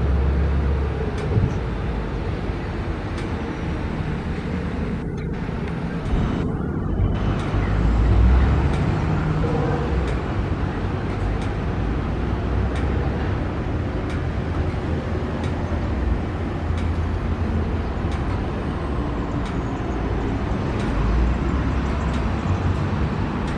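Steady city traffic noise: a continuous rumble of passing road vehicles that swells and eases, with a few faint ticks over it.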